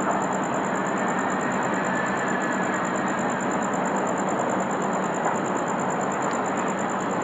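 Steady, unbroken vehicle or engine noise, holding an even level throughout.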